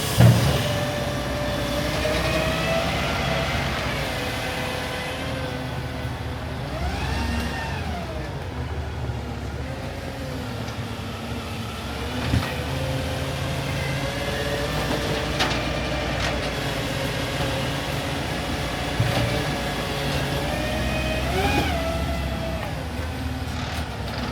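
Garbage truck engine running, its pitch rising and falling twice as it revs up and settles back. A heavy knock comes just at the start, with a few lighter knocks later.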